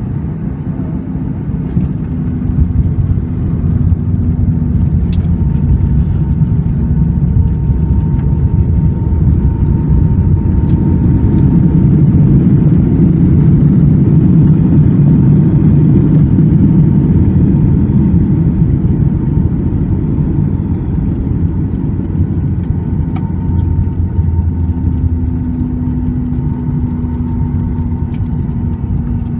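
Boeing 737 MAX 8 cabin noise: a steady low rumble of the engines and airflow with a faint steady hum on top. It swells to its loudest about halfway through, then eases.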